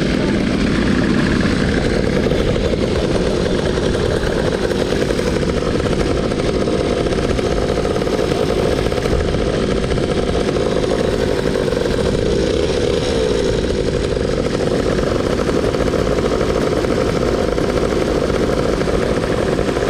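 Motor scooter's engine running steadily.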